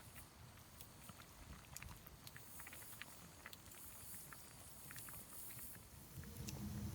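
Wood campfire crackling faintly with scattered small pops. A low steady hum comes in near the end.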